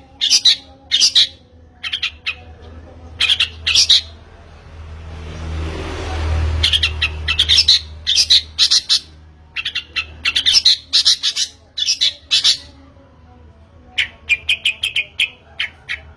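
Long-tailed shrike (pentet) singing in quick bursts of harsh, scratchy chattering notes, broken by short pauses. A soft rushing noise swells and fades midway.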